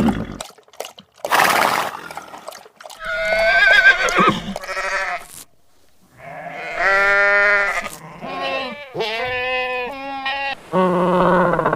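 Several farm animal calls one after another, each a drawn-out pitched cry with short gaps between them, one of them wavering in pitch.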